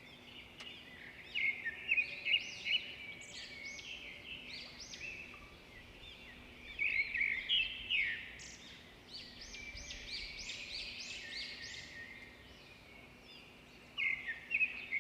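Several birds chirping and calling at once: many short, quick notes overlapping, swelling louder in a few spells.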